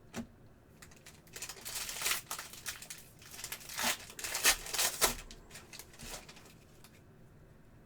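Foil trading-card pack wrapper crinkling and tearing as a pack is opened and its cards are handled. It comes as a rapid run of crackles, loudest just before the fifth second, then stops.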